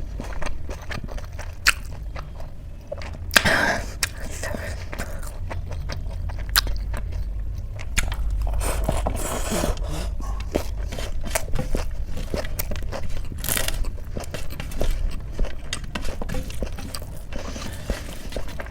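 A person eating chole with rice: mouth sounds of chewing and biting, with scattered sharp clicks and a few crunches, over a steady low hum.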